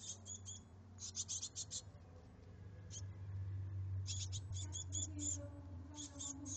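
Nestling birds begging: rapid, high-pitched cheeps in repeated bursts, over a low steady hum.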